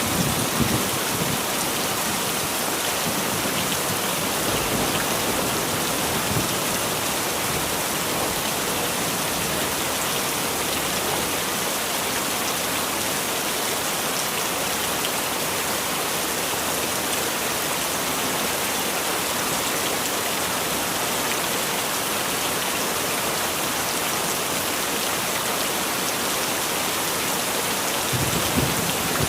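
Heavy rain falling steadily, a dense even hiss, with a brief low rumble of thunder about a second in and another near the end.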